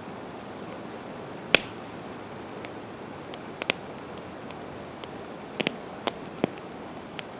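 Campfire of split evergreen wood burning: scattered sharp pops and crackles over a steady hiss, the loudest pop about a second and a half in and a quick run of pops near the end.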